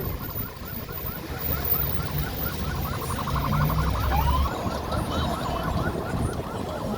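Electronic siren yelping: short rising whoops repeated about four times a second, over a low rumble of moving vehicles.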